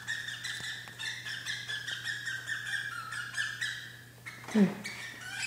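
A pet hen bird that has just laid an egg gives a rapid, steady string of short chirps, about three a second, which stop about four seconds in. The owner calls this having a fit. Near the end there is a brief, louder, low human vocal sound.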